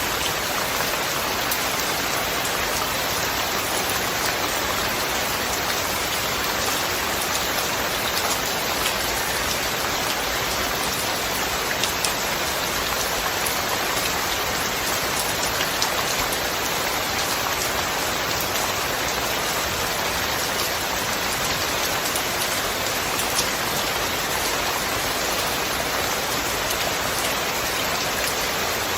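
Steady heavy rain falling on surfaces, a dense even hiss with many fine drop ticks throughout, without thunder.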